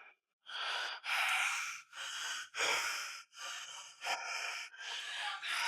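A man breathing hard after a short set of lifting, about eight quick heavy breaths in and out in a steady rhythm.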